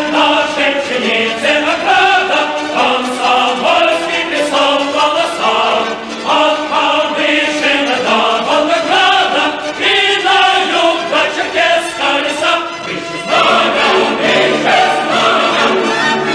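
Choral music: many voices singing together in shifting chords, with a lower part joining about two-thirds of the way through.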